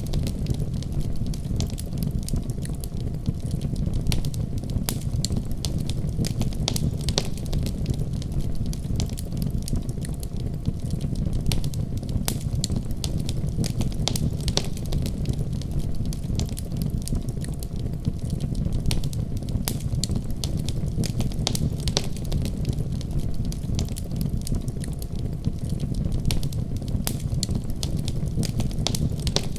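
Wood fire burning, with a steady low rumble and frequent sharp crackles and pops scattered throughout.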